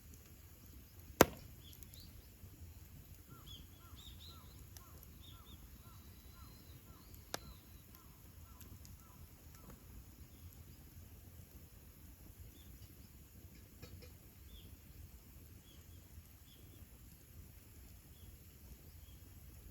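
Wood campfire with one sharp pop about a second in and a smaller one a few seconds later. A bird calls in the background, with a quick run of short repeated chirps.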